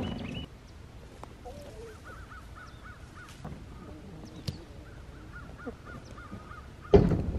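Two short runs of quick, repeated bird calls a few seconds apart, against a quiet outdoor background. A single loud knock comes near the end.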